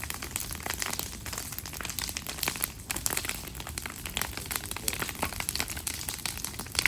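Campfire crackling: a dense, irregular run of small sharp snaps.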